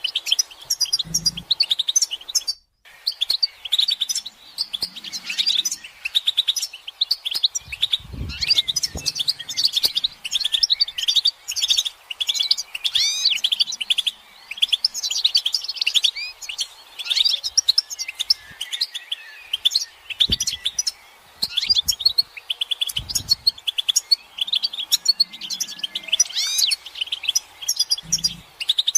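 European goldfinches twittering and calling in a dense, almost unbroken run of quick chirps and short trills. These are the excited mating and readiness calls used to stir a male goldfinch into singing.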